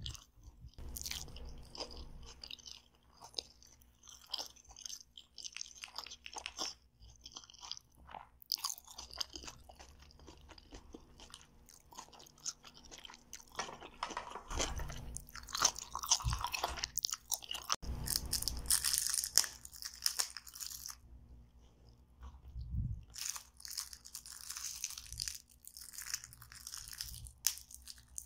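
Crunchy chewing and biting of a raw vegetable salad close to the microphone, with light clicks of a plastic fork against a plastic container. The crunching comes in irregular spells, heaviest in the middle and again near the end.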